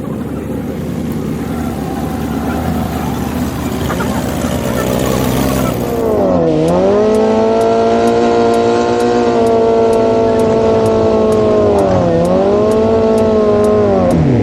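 Drag-racing motorcycle engine revving up, then held at a steady high pitch for several seconds. Its revs dip sharply and recover twice.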